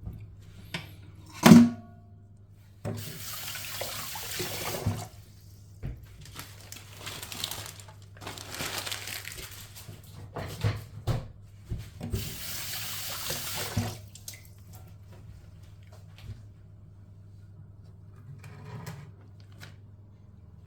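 Kitchen tap running into a sink in several bursts of a few seconds each, with a sharp knock about a second and a half in.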